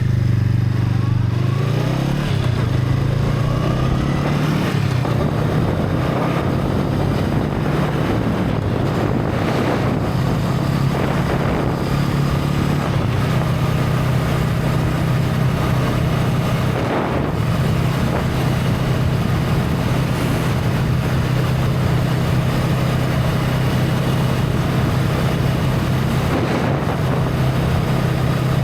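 Honda Rebel 500's parallel-twin engine on its stock exhaust, heard from the moving motorcycle. Its pitch climbs over the first few seconds, then it runs steadily at cruising speed, with wind rushing over the microphone.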